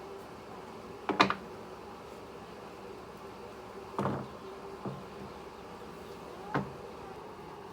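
Four separate knocks or clatters of objects being handled, the loudest about a second in, over a faint steady hum.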